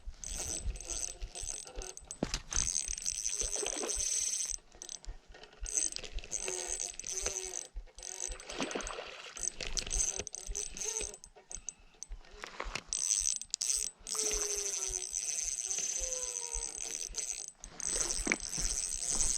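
Fishing reel being cranked in stops and starts, its mechanism clicking, while a hooked trout is played on light line.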